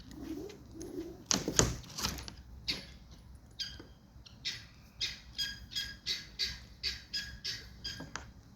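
Birds calling in a quick series of short, sharp, high calls, about two a second, starting a few seconds in; a louder short knock or rustle comes about a second and a half in.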